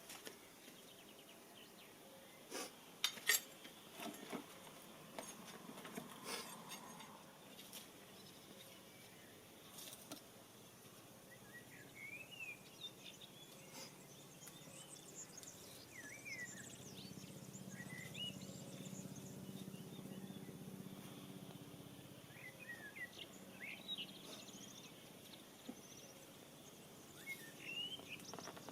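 Small birds chirping now and then, in short rising and falling calls. A few sharp knocks come in the first seconds, and a low steady hum is heard through the middle.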